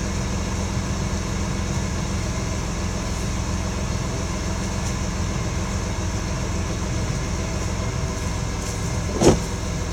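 A steady low machine hum, with one sharp knock near the end.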